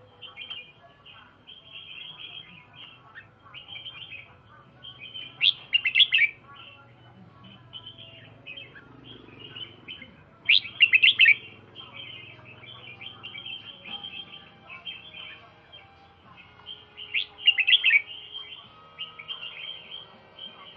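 A pet songbird singing: soft, continuous twittering broken by a louder burst of song about every five to six seconds, three times.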